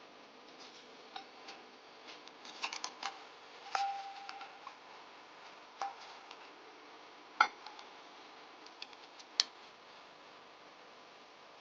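Kitchenware being handled: scattered light clinks and knocks, one ringing briefly about four seconds in, and two sharper knocks later on, over a faint steady hiss.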